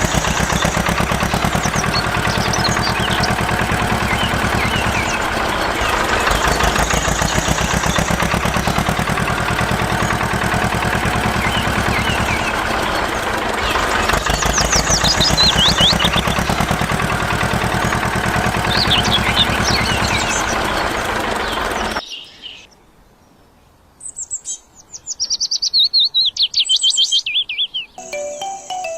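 Birds chirping over a steady, fast-pulsing engine-like drone. The drone cuts off suddenly about three-quarters of the way through, leaving only loud descending bird trills, and music comes in near the end.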